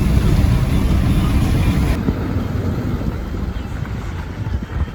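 A vehicle running with a heavy, noisy rumble, loudest for the first couple of seconds and then easing off a little.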